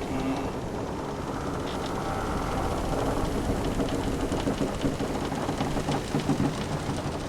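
Wooden sailing-ship timbers creaking in long drawn-out creaks over a steady wash of sea and wind, with small clicks and knocks of the hull in the second half.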